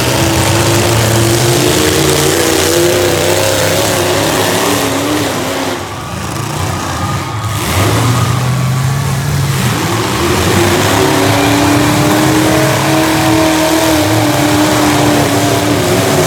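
Demolition derby cars' V8 engines revving loud, their pitch rising and falling as they rev and ease off, with a short lull about six seconds in before they pick up again.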